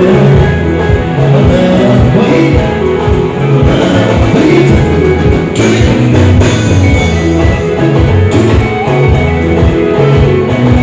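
Live band music at full volume: electric guitar picking over a steady, repeating bass line and drums.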